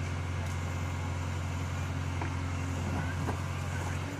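Backhoe loader's diesel engine running steadily with a deep hum, with a few short knocks about two to three seconds in.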